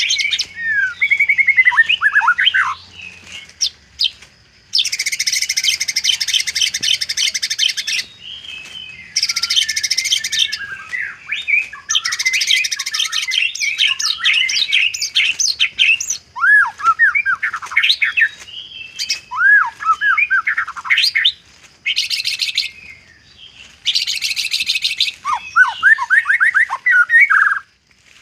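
White-rumped shama singing a varied song, with learned imitations of other birds woven in. Falling whistled phrases alternate with harsh, buzzy chatters lasting one to three seconds each.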